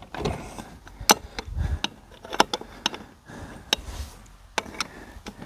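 Irregular sharp clinks and knocks, with a few dull thuds, of hand tools and wheel nuts being handled.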